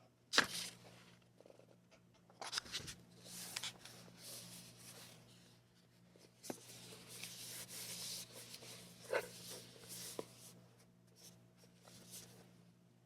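Paper being handled and rustled in irregular bursts, with a few sharp taps and clicks, over a faint steady hum.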